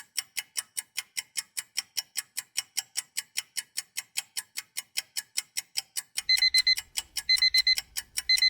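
Clock ticking fast and evenly, about four ticks a second. About six seconds in, an alarm-clock beeping starts: groups of four short high beeps, about once a second, marking the end of a countdown to answer.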